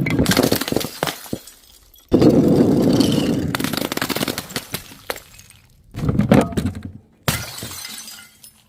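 Glass bottles smashing one after another: the dying tail of one break, then three fresh shatters about 2, 6 and 7 seconds in, each followed by crunching and tinkling shards that die away.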